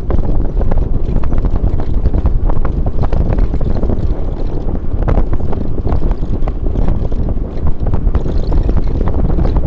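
Loud wind buffeting on the microphone over a constant low rumble, with many small knocks and rattles throughout.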